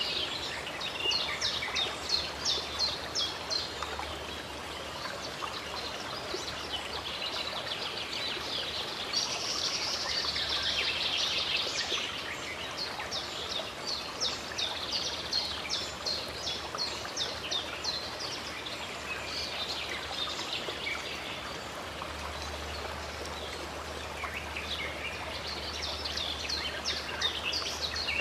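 Running stream water with a steady rush, and songbirds singing over it in several bouts of rapid repeated chirps and trills.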